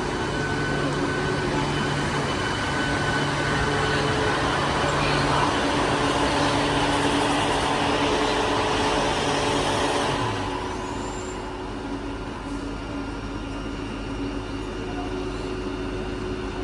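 Indian Railways train running past on the track, a loud steady rumble with a few held motor tones that eases off about ten seconds in as it moves away.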